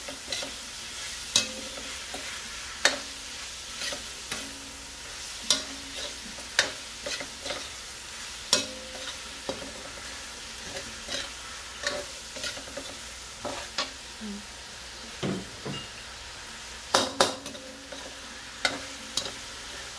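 Ground beef and sliced hotdog sausage sizzling in a metal wok, with a steady frying hiss. A metal spoon scrapes and clinks against the pan about once a second as the meat is stirred.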